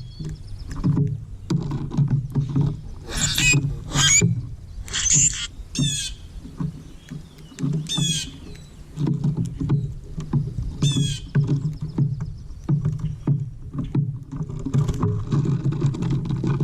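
Birds giving short bursts of high, rapidly repeated calls, several times over, above a steady choppy low rumble.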